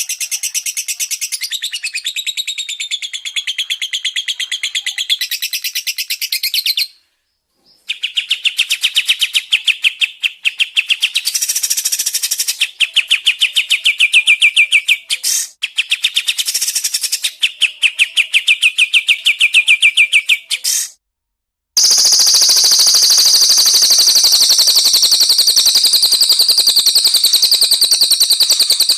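Songbirds singing rapid-fire trills, fast repeated notes many to the second, in three spliced stretches cut by brief silences about seven and twenty-one seconds in. The last stretch is a higher, denser, unbroken trill.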